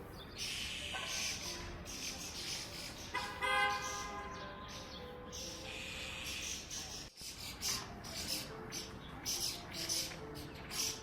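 Birds chirping and calling, with one loud, harsh call about three and a half seconds in; the calls are those of a laughingthrush.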